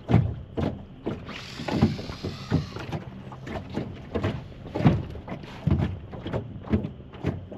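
Fishing rods and reels being handled in a boat: irregular knocks and clicks, with a brief hissing whir between about one and three seconds in.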